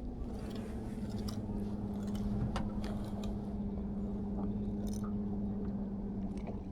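Boat motor running with a steady low hum at one pitch, with scattered small clicks and knocks over it.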